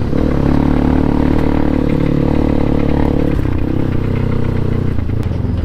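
Crossfire RM250 dirt bike's loud exhaust running at a steady throttle while riding; the engine note eases off about three and a half seconds in.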